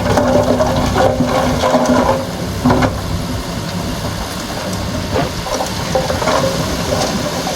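Earthmoving machinery at work, a bulldozer and dump trucks, running with a continuous rushing noise and scattered knocks. A steady whine runs under it and stops a little over two seconds in.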